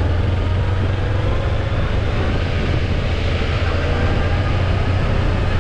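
Motorbike underway at a steady pace: engine and road noise with heavy wind rumble, all at an even level.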